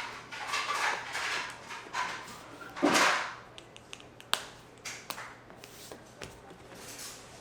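Water buffalo leather being handled: rustling and brushing of the hide, a sharp swish about three seconds in, then a quick run of light clicks and taps.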